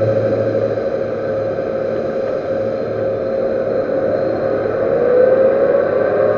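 Metal lathe running with a steady hum, its pitch rising near the end, while turning a servo motor shaft.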